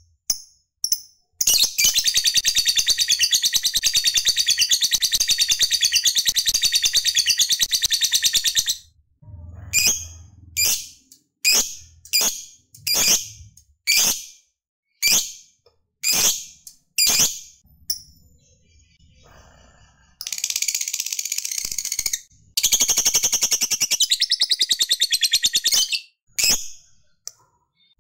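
Lovebird 'ngekek' song: long, rapid chattering trills lasting several seconds each, with a run of single sharp chirps between them.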